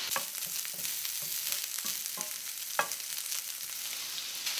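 Crumbled chorizo frying in its own fat in a pan: a steady sizzle with scattered small pops and crackles, one a little sharper just under three seconds in.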